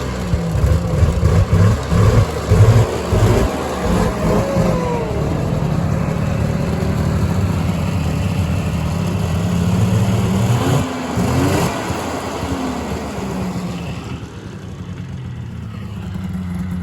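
A small vehicle engine revving in uneven blips for the first few seconds, then running more steadily, its note easing lower near the end.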